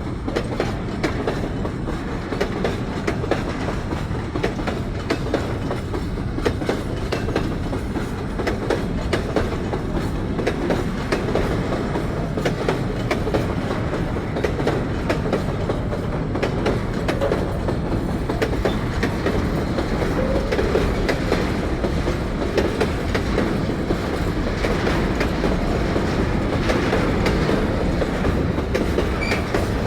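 A long freight train of empty wagons rolling steadily past, its wheels clacking and rattling over the rail joints.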